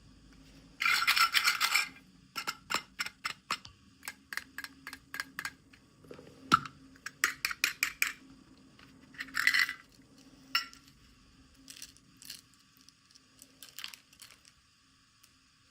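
Small hard plastic toy pieces and packaging being handled in an unboxing: many sharp clicks and light clinks, with two short bursts of rustling or crinkling, the first about a second in and the second near the middle.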